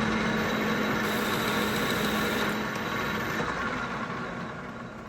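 Metal lathe taking a single-point internal threading pass in a steel plate: a steady cutting noise over a low hum, which fades away over the last second or two.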